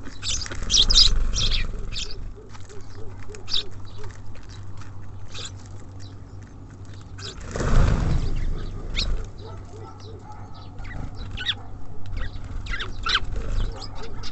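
Small songbirds at a feeder giving short high chirps and ticks, over a steady low background rumble. About halfway through comes a louder, low rush of noise lasting about a second.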